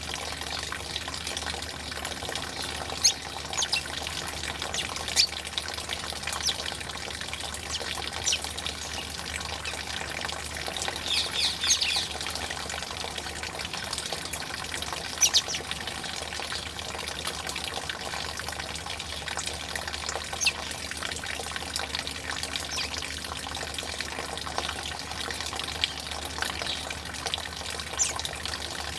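Steady rush of running water, with short, sharp bird calls over it now and then, about eight times, including a brief cluster around eleven seconds in.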